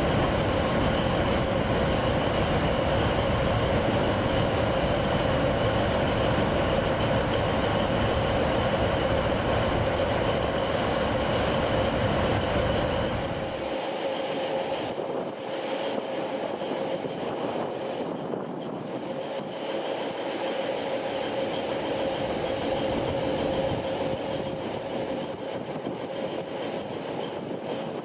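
Train running with a steady whine over its noise. About halfway through, the low rumble drops away abruptly and the sound becomes quieter while the whine carries on.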